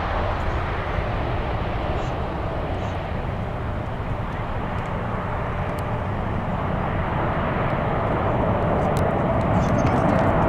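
Jet airliner engines at takeoff power: a steady, dense engine noise with a faint steady tone in it, growing louder over the last few seconds.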